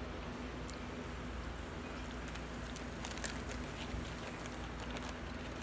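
Chewing on kettle-cooked potato chips: a scatter of small crackles and crunches, clustered in the middle, over a steady low hum.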